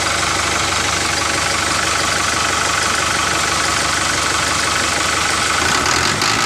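An engine idling steadily with a fast, even chug.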